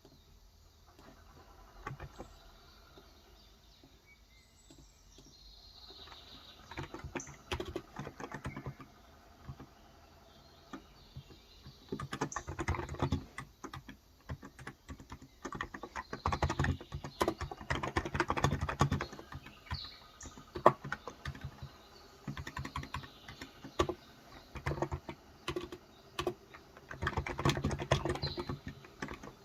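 Typing on a Cox Endeavour electrostatic-capacitive tenkeyless keyboard with 35 g switches, in fast runs of keystrokes broken by short pauses. Birds chirp faintly in the background.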